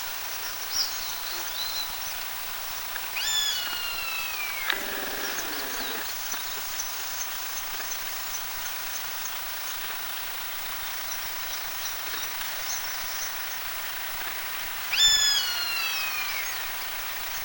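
Eastern buzzard giving two long descending mewing calls, one about 3 seconds in and a louder one about 15 seconds in. These are the alarm calls of a parent disturbed at its roost near the nest. Faint high-pitched chirping continues in the background.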